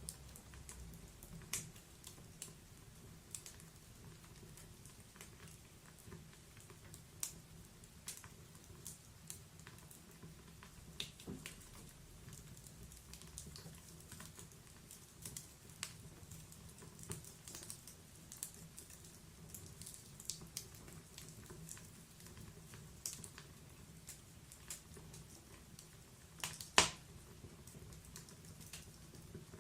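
Wood fire burning in a fireplace: a low rumble of flame with scattered sharp crackles and pops, one much louder pop near the end.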